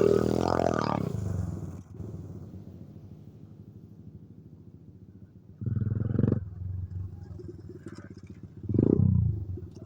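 Coolster 125 pit bike's small single-cylinder four-stroke engine revving hard, then dropping to a low, quiet steady running. Two short throttle blips come about six seconds in and again near the end, the second falling in pitch.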